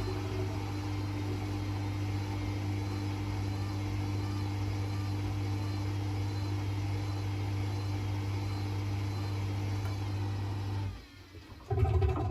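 Hoover Rapid 44 washing machine running with a steady electric motor hum. The hum cuts out about eleven seconds in, then a short louder burst of hum comes just before the end.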